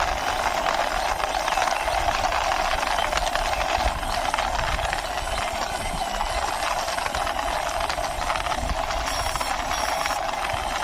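Plastic toy car pushed by hand, its wheels rolling and rattling lightly over a hard surface, over a steady background hiss.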